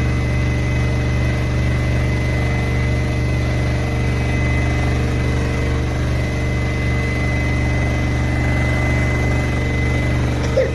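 Beko BM3WFU3741X washing machine running, a steady motor hum with a thin high whine above it.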